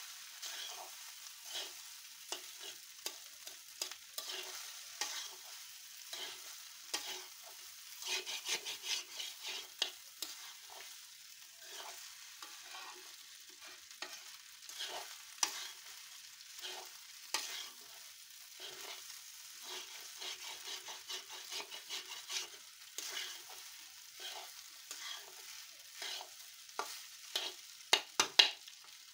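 Rice frying in a pan, sizzling steadily while a metal spatula stirs and scrapes through it in quick repeated strokes. A few sharper, louder knocks come near the end.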